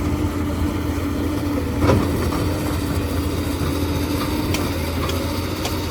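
Heavy diesel engine of construction machinery running steadily, with one short knock about two seconds in.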